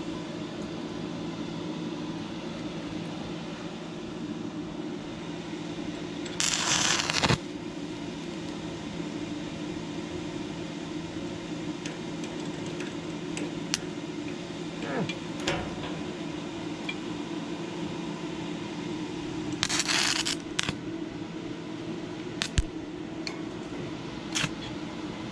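A steady low hum, as from the inverter arc welder's cooling fan, runs throughout. It is broken twice, about six seconds in and again near twenty seconds, by a roughly one-second burst of crackling noise, with scattered sharp ticks in between.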